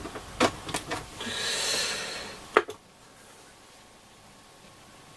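A few sharp clicks and knocks of an antenna lead being connected to an AOR AR-2002 scanner receiver, then about a second and a half of hiss that swells and fades and cuts off with a sharp click, leaving a faint steady hiss.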